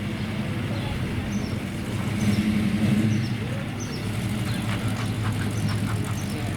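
A car engine idling: a steady low hum that swells a little about two seconds in.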